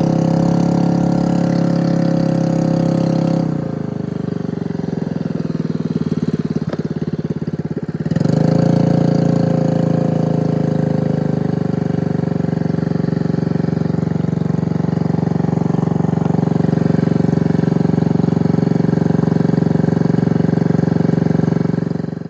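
Robin 5 hp small gasoline engine powering a bangka, running steadily. About three and a half seconds in it drops to a lower note, and about eight seconds in it picks back up to a steady, higher run.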